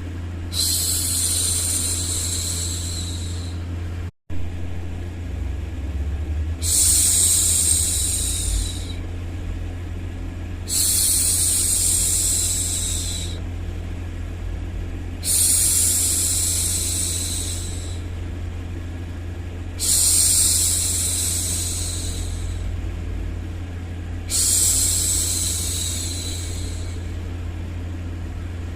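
A woman's voice hushing 'shhh' over and over, six long shushes about every four to five seconds, each lasting two to three seconds, over a steady low hum. The sound cuts out for an instant about four seconds in.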